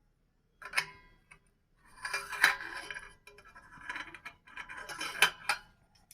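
Light metallic clinking and rattling in four short bursts: a thin, cheap aftermarket motorcycle exhaust and its parts being handled.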